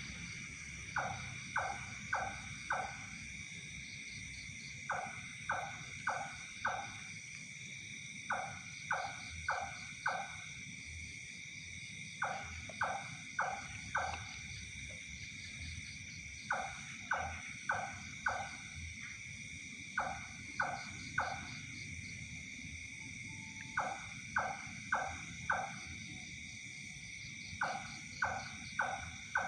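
An unidentified animal calling in groups of four short notes, about a quarter-second apart, with a new group every three to four seconds. Behind it runs a steady, high-pitched chorus of night insects.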